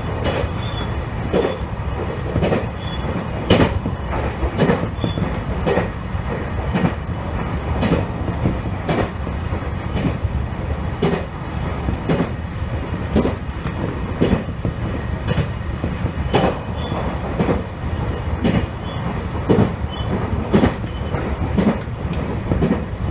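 Electric train running at speed, with a steady rumble of running noise heard from inside the train. The wheels clack over the rail joints in an even rhythm, about once a second.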